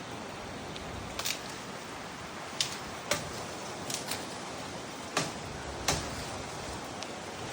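Branches being cut by hand: about eight short, sharp knocks at irregular intervals over a steady rush of wind.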